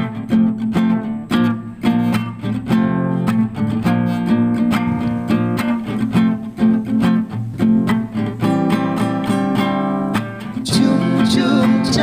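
Acoustic guitar strumming chords in a steady rhythm, the instrumental introduction before the voices come in.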